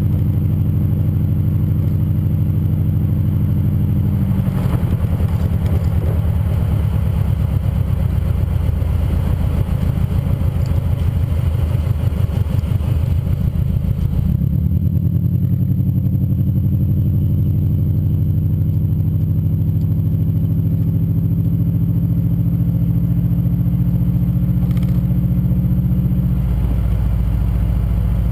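Subaru EJ25D 2.5-litre flat-four running through unequal-length headers and an HKS Hi-Power titanium axle-back exhaust, a steady engine drone. About five seconds in the note turns rougher and pulsing for roughly ten seconds, then settles back to a smooth drone whose pitch drifts slightly.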